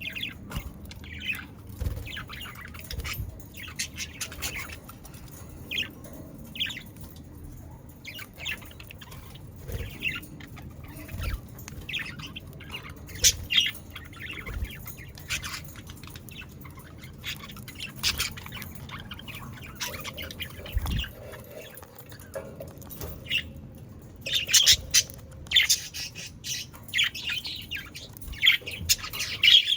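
A flock of budgerigars chattering, with many short chirps and squawks overlapping, busiest near the end.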